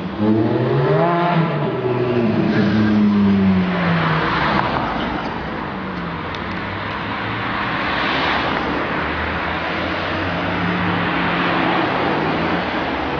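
Ferrari F430's V8 through a Novitec aftermarket exhaust, revving sharply upward in the first second or so, then dropping in pitch over the next few seconds as the car goes by. A steadier engine note with a rushing road noise follows.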